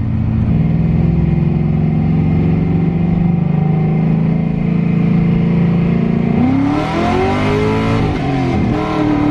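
LS2 V8 in a Nissan 240SX, running through long-tube headers, two high-flow cats and straight pipes, droning at steady revs. About six and a half seconds in, the revs rise and fall in a few sweeps as the throttle is worked.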